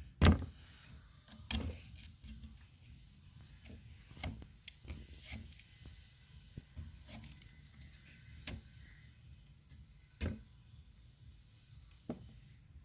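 Scattered knocks and clicks from objects being handled, irregular rather than rhythmic, with the loudest knock about a quarter second in and another about ten seconds in.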